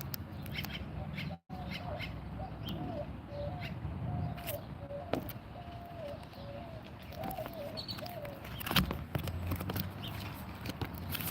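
A bird calling a run of short, low, wavering notes for several seconds, over scattered sharp clicks and taps and a steady low hum.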